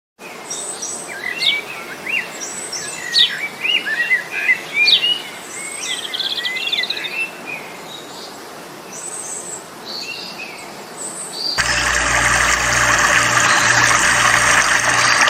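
Several wild birds chirping and singing in quick, overlapping calls over a steady outdoor background. About eleven seconds in it cuts abruptly to a louder, dense, steady rushing sound with a low pulsing hum beneath it.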